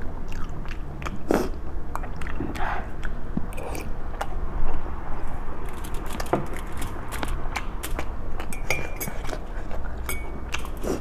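Close-miked mukbang eating: a person chewing and biting food, with many small wet mouth clicks.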